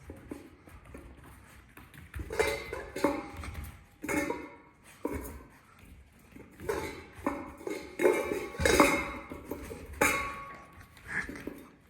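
Irregular clattering and knocking of a food bowl being nosed and pushed about by a puppy trying to get at the food, starting about two seconds in.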